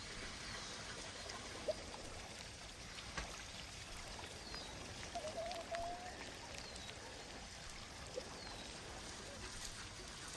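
Faint outdoor ambience: a steady low hiss, with a few short high chirps spread through it and a couple of light clicks.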